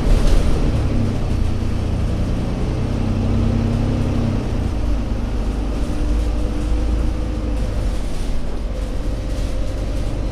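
Alexander Dennis Enviro500 MMC Euro 6 double-decker bus engine running steadily. Its low note shifts about five seconds in.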